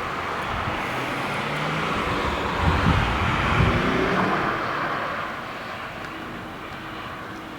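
A car going past, its road noise swelling and then fading away after about five seconds, with a few low rumbles in the middle.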